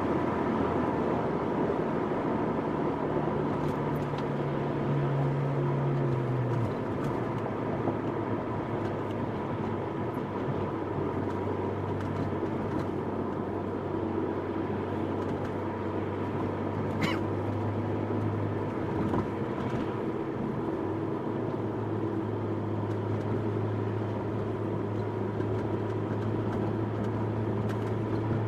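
Ferrari California T's twin-turbo V8 running steadily at a light cruise, with tyre and road noise; the engine note drops to a lower pitch about six seconds in, as on an upshift or easing off. A single brief high chirp sounds about two-thirds of the way through.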